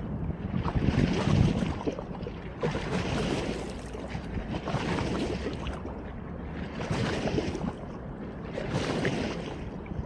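Small waves washing in, each swell rising and falling about every two seconds, with a low rumble of wind on the microphone.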